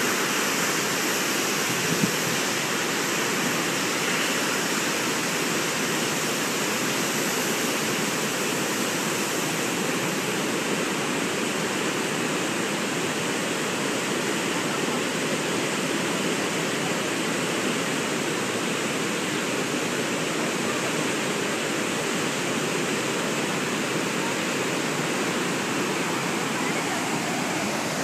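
Water released in a dam's test discharge rushing and falling steadily, a constant loud wash of water noise, with one short click about two seconds in.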